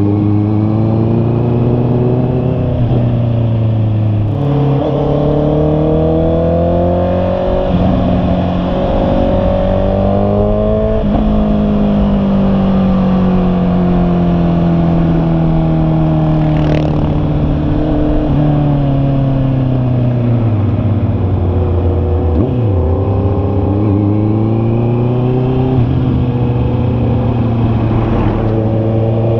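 Honda CB650R's inline-four engine under way, its pitch climbing and falling as the throttle opens and closes. There is a long, slow drop through the middle as the bike slows, then a rise again near the end.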